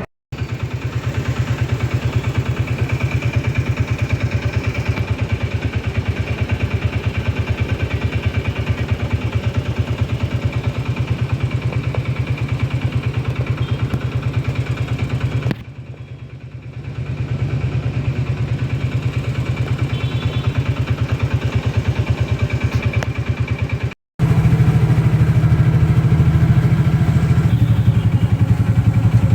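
Motorcycle engine running steadily, heard close up, with street noise. The sound cuts out briefly just after the start and drops away for about two seconds in the middle. It cuts again shortly before the end and comes back louder.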